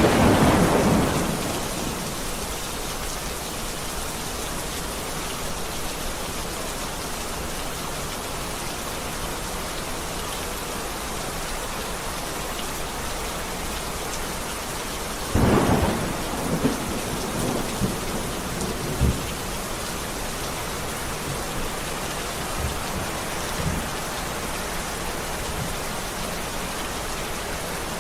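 Heavy rain falling steadily, with a thunderclap dying away over the first couple of seconds. About halfway through another thunderclap breaks, followed by a few rumbling cracks over the next few seconds.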